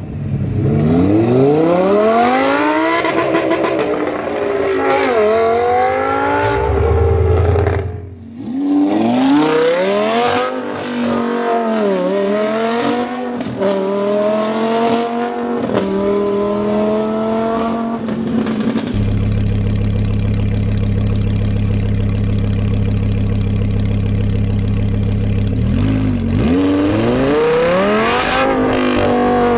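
Lamborghini supercar engine accelerating hard through the gears, loud. The pitch climbs and drops back at each upshift over several runs, with a short break about eight seconds in. In the middle there is a long stretch of steady low engine note before another hard acceleration near the end.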